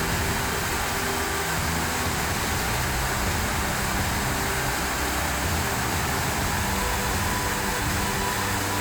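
Steady rush of a rainforest waterfall, an even unbroken roar of falling water.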